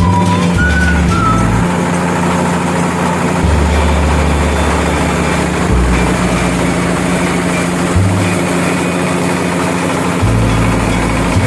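Rice milling machine running steadily, giving a constant hum under a dense mechanical noise.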